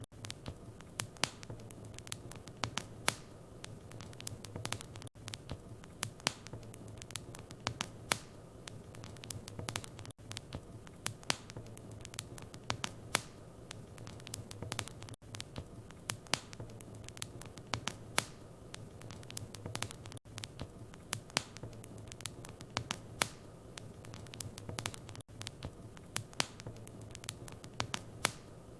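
Wood fire in a fireplace crackling, with frequent irregular sharp pops and snaps over a low steady hum. There are short dropouts about every five seconds.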